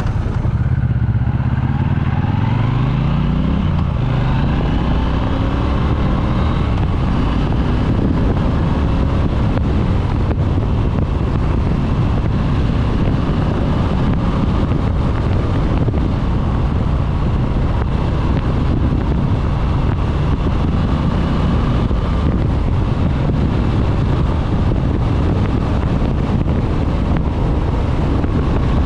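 A Triumph Bonneville's 1200 cc parallel-twin engine accelerating, rising in pitch over the first few seconds, then running steadily at speed with wind rushing past a helmet microphone.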